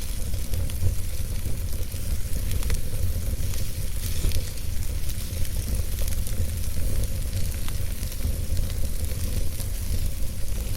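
Wood fire burning in a fireplace: a steady low rumble of flames with a hiss, and frequent small crackles and pops from the burning logs.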